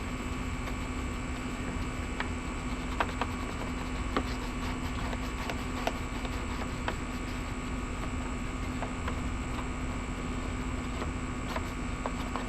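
Air conditioner running with a steady hum, with occasional light clicks and taps over it.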